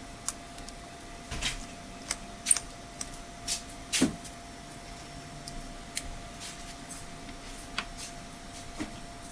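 Small screwdriver work on a tablet's tiny screws: scattered light clicks and taps at irregular intervals, over a faint steady tone.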